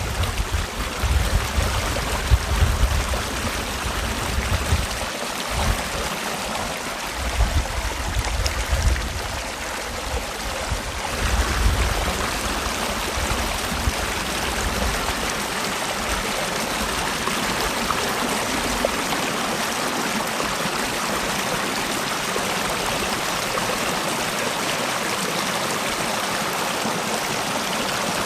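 Mountain valley stream, a steady even rush of running water. A gusty low rumble comes and goes through the first half, then dies away.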